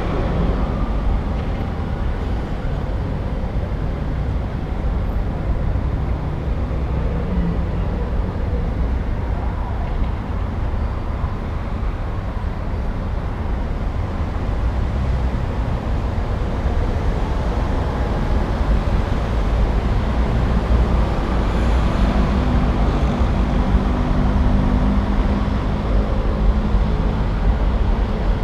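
City street traffic: a steady mix of passing cars, buses and motorbikes with low engine rumble, growing a little louder in the second half.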